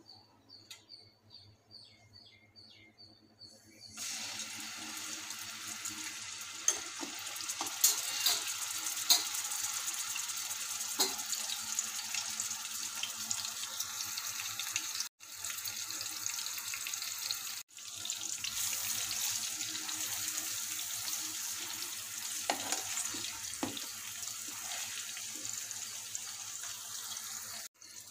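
Onion paste and green chillies frying in hot oil in a nonstick pan: quiet with a few faint ticks at first, then a sudden loud, steady sizzle about four seconds in, with occasional sharp pops. The sizzle breaks off abruptly twice midway and again near the end.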